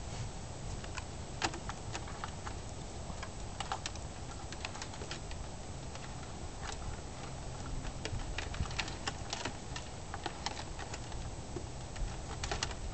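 Scattered, irregular light clicks and taps, such as parts being handled on a model airplane, over a steady low background rumble; a denser cluster of clicks comes a little past the middle and again near the end.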